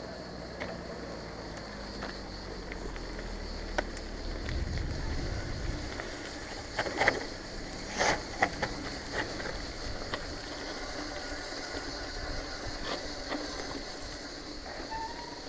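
Mountain bike being ridden, heard through an action camera: steady tyre and wind noise, with a run of sharp rattles and clicks in the middle.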